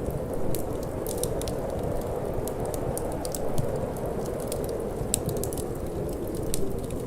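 Wood fire crackling, with frequent small sharp pops at irregular moments, over a steady low rush of wind.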